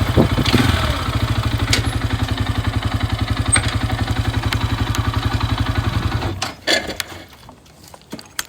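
Loncin SX2 250 single-cylinder motorcycle engine idling with an even, rapid pulse, then switched off about six seconds in. A couple of knocks follow just after it stops.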